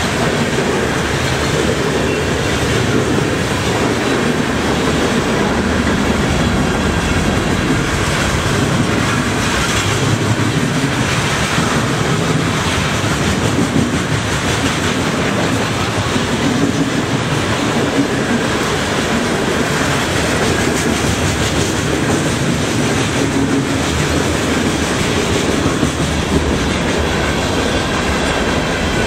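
Freight train cars rolling past close by, their steel wheels clattering on the rails in a loud, steady, unbroken din.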